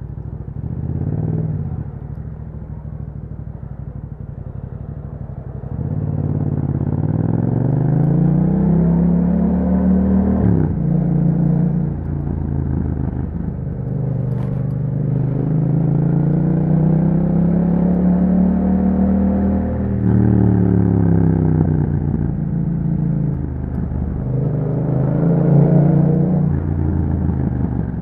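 2021 Yamaha MT-07's 689 cc parallel-twin engine running through an Akrapovic exhaust with dB killer while riding: the revs climb steadily, drop sharply at a gear change about ten seconds in, climb again until about twenty seconds, ease off, and rise briefly once more near the end.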